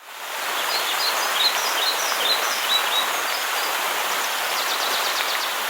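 Steady rush of a waterfall, with birds chirping over it, most often in the first three seconds, and a quick run of ticking calls near the end.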